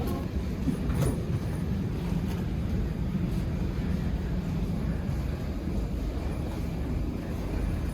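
Steady low engine rumble, with a short click about a second in.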